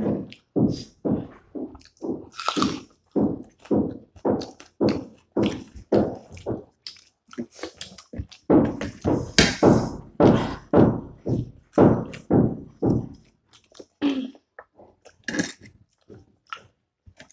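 Close-miked wet chewing and lip smacking of people eating momo dumplings and buffalo-leg meat, about two to three chews a second, with a few sharper smacks, thinning out in the last few seconds.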